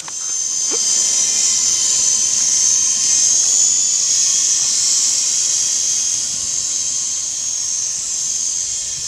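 S031G remote-control toy helicopter's small electric motors and rotors running in flight, a steady high-pitched whine with a hiss.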